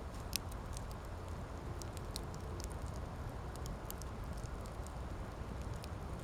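Wood campfire crackling: frequent sharp pops and snaps, the loudest one just under half a second in, over a steady low rumble.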